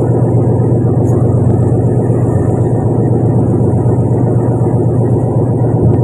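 Fishing boat's engine running steadily at an even speed, a loud continuous low drone.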